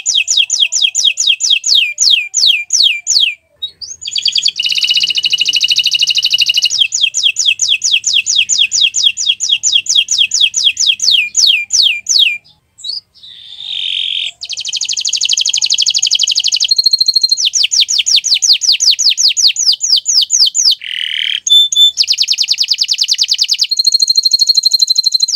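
Domestic canary singing: long, very fast trills of repeated high notes, switching to a new phrase every few seconds, with short breaks about three and a half seconds in and near the middle.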